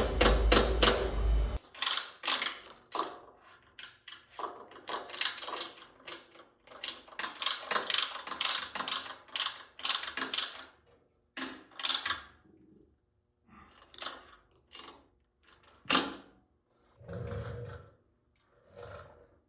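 A mallet hammering on a Honda CB750 Four's exhaust pipe to seat it in the head: quick runs of sharp metallic knocks, several a second, then scattered single blows and a few duller thuds toward the end. A loud low rumble fills the first second and a half.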